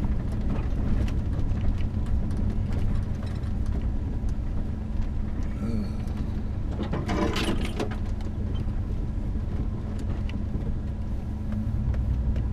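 A vehicle's engine running steadily as it drives along, with small knocks and rattles over the ground. There is a short louder burst about seven seconds in.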